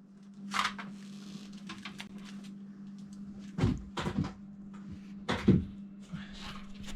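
A handful of knocks and clunks, loudest in two clusters a little past the middle, over a steady low hum.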